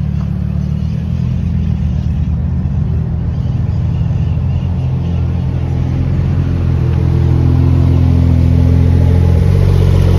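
Sports car engines idling low while the cars creep forward in a staging line. The steady rumble grows louder about seven seconds in as a Porsche 911 Turbo's twin-turbo flat-six rolls close past.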